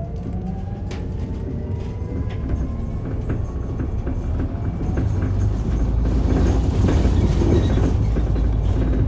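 Mitsubishi Fuso Aerostar Eco Hybrid city bus heard from inside while accelerating: the electric drive motor's whine rises in pitch over the first few seconds. Then a low rumble grows louder from about halfway through, with small rattling clicks.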